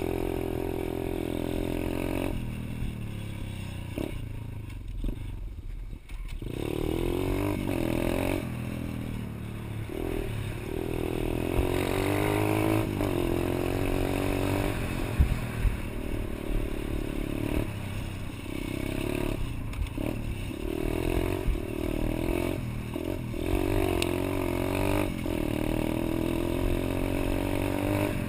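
Pit bike's small single-cylinder engine revving up and down as it is ridden. It eases off for a few seconds near the start, then pulls through repeated rises and drops in pitch.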